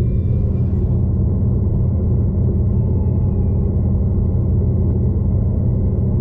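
Steady low rumble of a V/Line passenger train running, heard from inside the carriage: wheel and track noise with the train's running gear.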